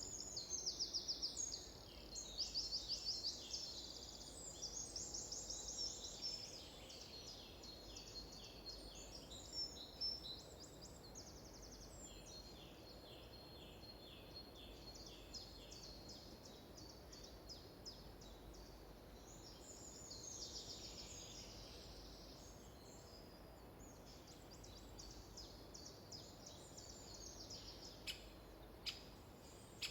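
Several songbirds singing at once: rapid trills and runs of repeated high notes overlap one another, busiest in the first few seconds. A couple of short, sharp clicks come near the end.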